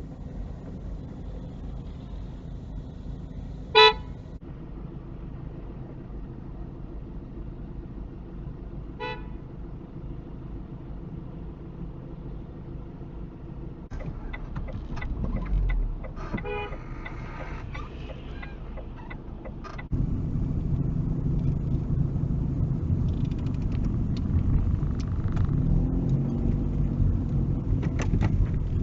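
Car horn sounding in one short, loud blast about four seconds in, then a fainter short toot about five seconds later, over the steady engine and road noise heard inside a moving car.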